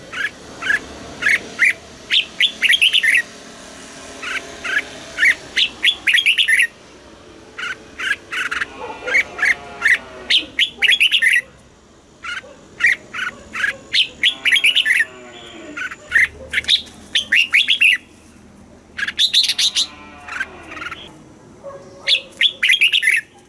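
Red-whiskered bulbul singing: runs of quick, bright whistled phrases broken by short pauses. A fainter, lower warbling sound comes in beneath the song a few times.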